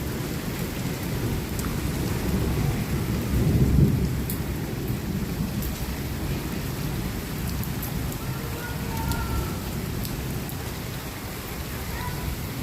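Heavy rain falling steadily, with a deep rumble underneath that swells about four seconds in.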